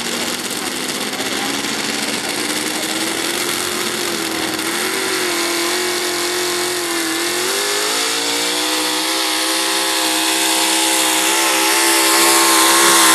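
Modified pulling truck's engine running at high revs under load, its pitch climbing slowly and its level growing louder toward the end.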